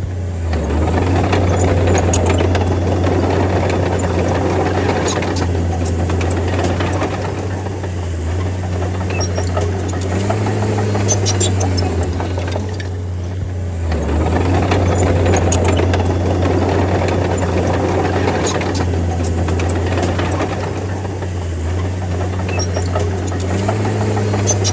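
D30 bulldozer's diesel engine running under load, its level swelling and easing in cycles with dips about 8 and 13 seconds in, and scattered sharp clanks and ticks.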